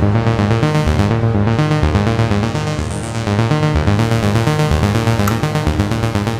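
Behringer Crave monophonic analog synthesizer playing a fast step-sequenced arpeggio riff in the bass register, its single oscillator giving a thick, classic tone; the top end briefly dims near the start and again about a second in.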